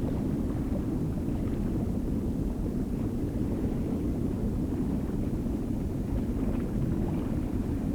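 Steady low rumble of ocean water noise, with no distinct calls or other events.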